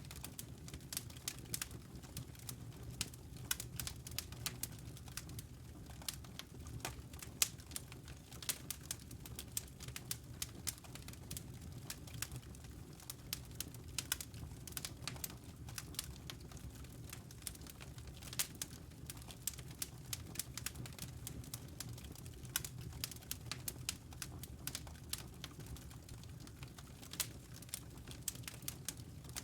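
Wood fire crackling in a fireplace: irregular small snaps and pops, a few louder ones, over a steady low rumble.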